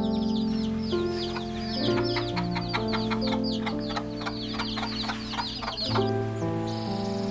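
Chickens calling rapidly, a dense run of high falling peeps mixed with short clucks, over soft background music. The calls stop about six seconds in and the music carries on alone.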